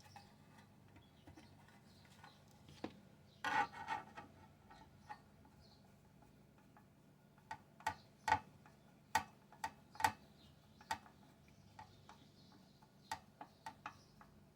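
Irregular small clicks and taps of parts being handled and fitted, with a short cluster of clattering about three and a half seconds in and scattered single clicks later on.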